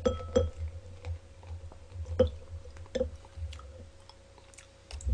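A person chewing fried chicken close to the microphone, with repeated soft crunches and wet clicks about once or twice a second. A light clink of a glass beer bottle against a glass rings briefly near the start.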